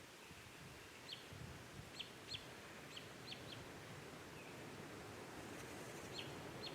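Faint bird calls: about eight short, sharp chirps, each dropping quickly in pitch, at irregular intervals over a low, faint rumble.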